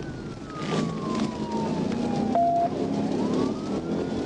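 Police siren on a wail, sliding slowly down in pitch and then climbing again, over the steady engine and road noise of a car at pursuit speed. A short steady tone sounds briefly about two and a half seconds in.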